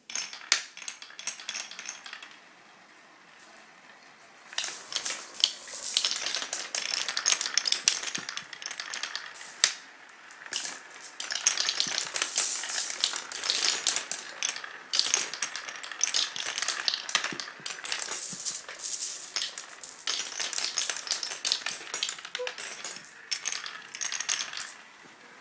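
Many marbles rolling and clattering down a Quadrilla wooden marble run: a dense stream of clicks and clinks that thins out about two seconds in and picks up again a couple of seconds later.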